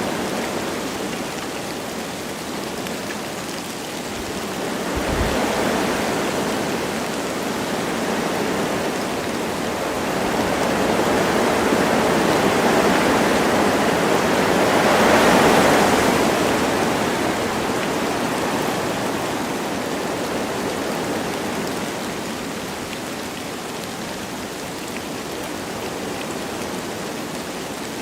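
Wind gusting through forest trees with light rain falling: a steady rushing hiss that swells twice, most strongly about halfway through.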